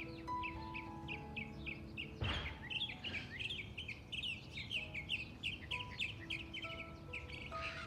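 Small birds chirping in a quick, steady series of short notes, over soft background music with long held notes. A brief rushing noise comes a little over two seconds in.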